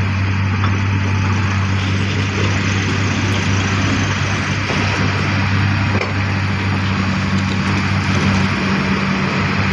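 Heavy diesel machinery running steadily with a constant low hum.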